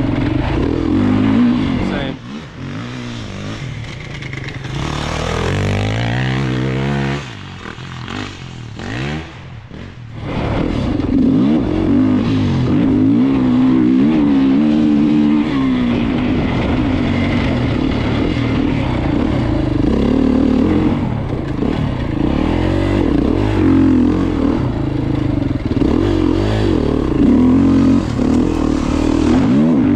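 Beta 390 Racing enduro bike's four-stroke single-cylinder engine revving up and down under throttle while ridden. About two seconds in it drops quieter and lower for several seconds, then comes back to a steady high-revving run with repeated rises and falls in pitch.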